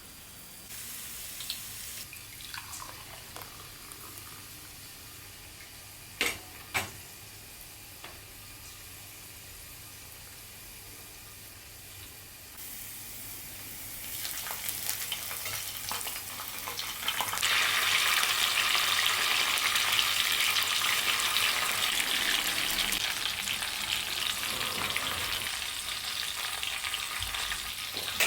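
Food sizzling in hot oil in a pan, with a few light knocks early on. The sizzle grows from about halfway through and turns loud and steady for the last ten seconds.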